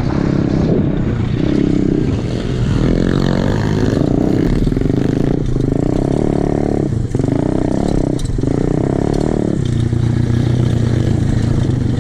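Small single-cylinder four-stroke pit bike engine pulling under load, rising and falling in a run of throttle pulls with short dips between them. About ten seconds in it settles to a steadier, lower note.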